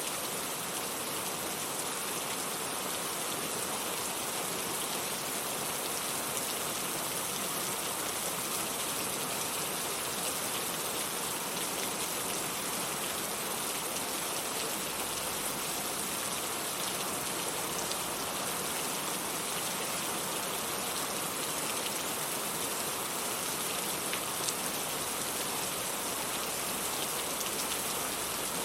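Steady rain falling on a surface, a dense even hiss with faint scattered drop ticks.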